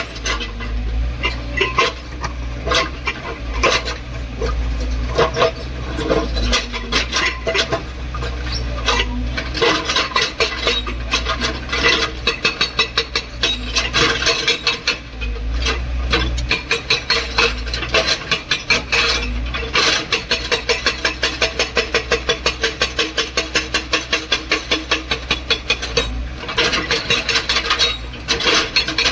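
A JCB excavator working a breaker. Runs of rapid, even metallic blows, several a second, come over the machine's steady low engine drone, with pauses between runs.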